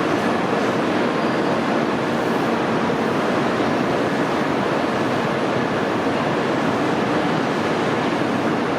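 Steady, even rushing noise from the freight train hauled by an ED76 electric locomotive, with a faint steady whine above it.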